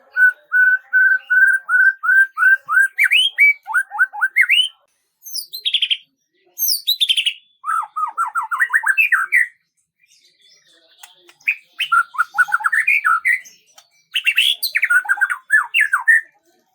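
A songbird singing in phrases separated by short pauses. The song opens with a steady run of repeated notes at one pitch, about three a second, then moves into quick rising slurred whistles and trills.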